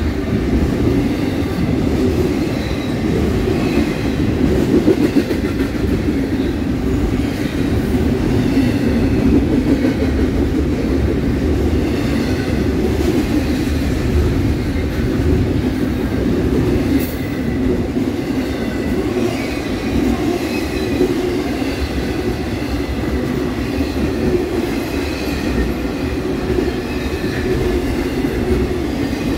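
Double-stack intermodal container freight train rolling past at steady speed: a continuous, even rumble of steel wheels on rail.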